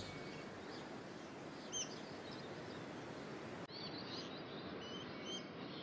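Rainforest ambience: a steady soft hiss with a few short, high bird chirps scattered through it, the ambience changing slightly at an edit about two-thirds of the way in.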